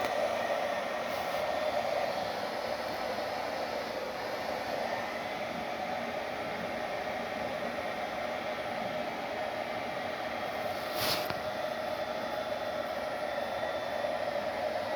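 A small blower motor running steadily with an airy hum, with one brief click about two-thirds of the way in.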